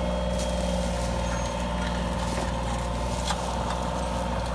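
A vehicle engine running steadily at idle, with a few light clicks over it.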